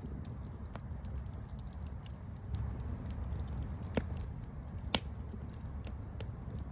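Campfire burning with a low steady rumble and scattered sharp crackles and pops, the two loudest about four and five seconds in.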